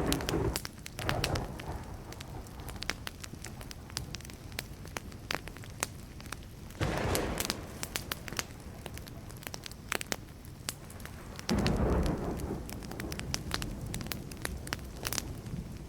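Wood fire crackling with a steady run of sharp pops, while distant thunder rumbles three times: at the start, about seven seconds in, and most loudly about twelve seconds in.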